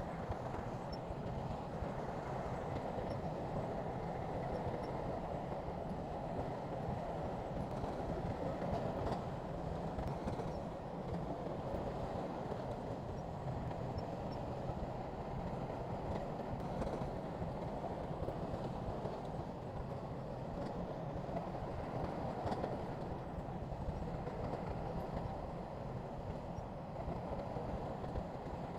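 Heavy diesel earthmoving machinery, most likely the SHANTUI crawler bulldozer, running steadily under load with a continuous low rumble.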